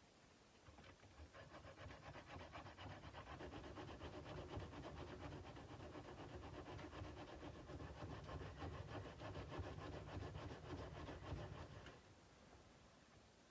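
Sandpaper rubbed by hand along a steel kukri blade in quick, even back-and-forth strokes, starting about a second in and stopping about a second before the end.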